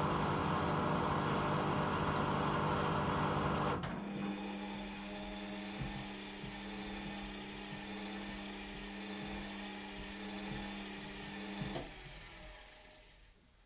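Washing machine spinning its drum at speed with a steady hum. About four seconds in there is a sharp click and the spin winds down to a lower, quieter hum with a regular ticking. Another click comes near the end, and the sound fades away as the drum comes to a stop at the end of the spin.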